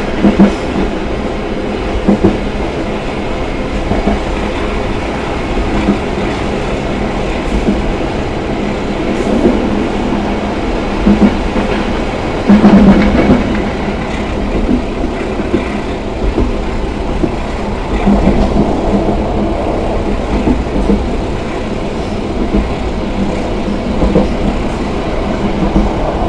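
KA Taksaka passenger train running along the line: a steady rumble of wheels on rail with clickety-clack knocks at the rail joints, louder for a moment about halfway through.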